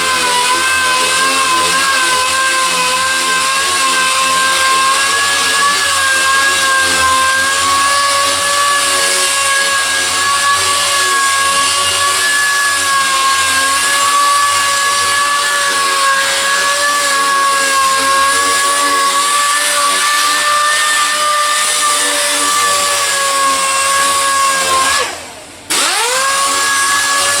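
Handheld power sander running at a steady high speed with a continuous whine, sanding body filler. About 25 seconds in it is let off, winds down, and spins back up to speed within about a second.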